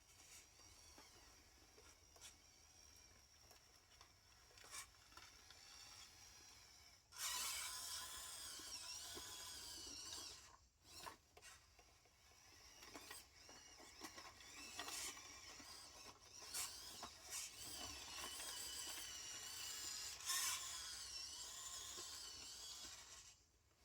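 Faint whine of small electric motors rising and falling in pitch, mixed with scraping and rubbing. It starts about seven seconds in, breaks off briefly a few seconds later, then carries on.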